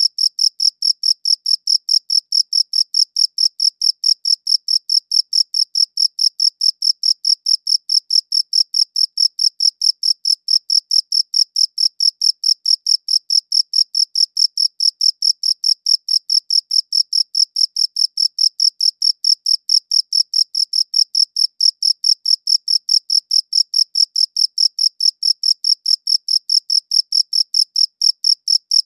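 Cricket chirping in a steady, even rhythm of short high-pitched pulses, several a second, unchanging throughout.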